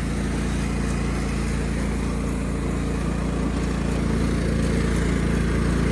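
1999 Cub Cadet HDS 2135 riding mower's engine running steadily at operating temperature as the mower is driven, growing a little louder about four seconds in.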